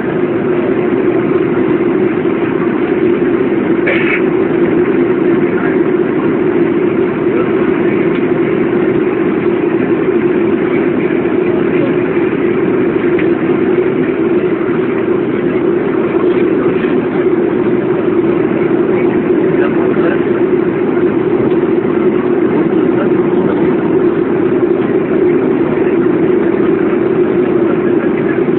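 Steady drone of a Boeing airliner's jet engines heard inside the passenger cabin, with a short high sound about four seconds in.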